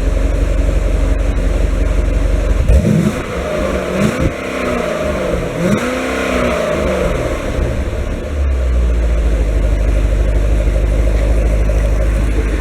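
2006 Corvette V8 through NPP dual-mode mufflers with the valves closed, idling, then revved up and back down a few times before settling back to idle. It sounds muffled and pretty quiet, like stock mufflers.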